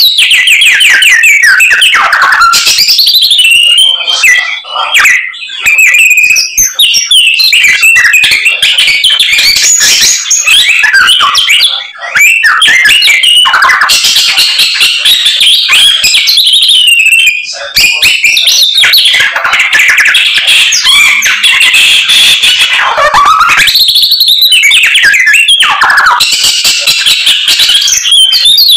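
A samyong songbird singing loudly and almost without a break: a rapid, varied run of whistles, trills and mimicked calls of other birds, with a few short pauses.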